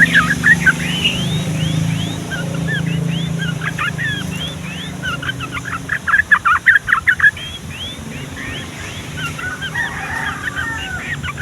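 Yellow-vented bulbuls singing: a busy chatter of quick, rising, looping whistled notes, with a dense, loud run of rapid notes about six seconds in. A low hum fades out during the first couple of seconds.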